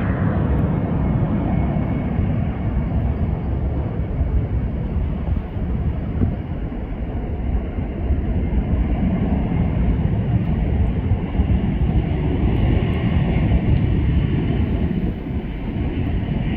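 Boeing 767-300ER jet airliner taking off: a steady deep rumble of engines at takeoff thrust, with a hiss that brightens a little past the middle.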